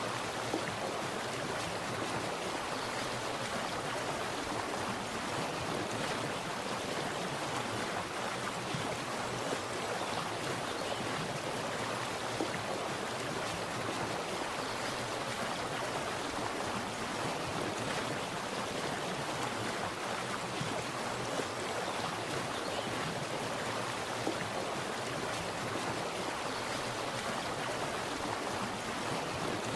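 Water splashing and running steadily, like a small stream or cascade, an even rushing with no pauses.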